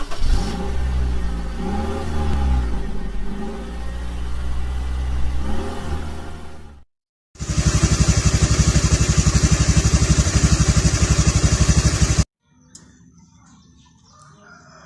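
Motorcycle engine revving up and down several times, then after a brief cut, running hard with a fast, even beat for about five seconds before it stops abruptly, leaving faint background noise.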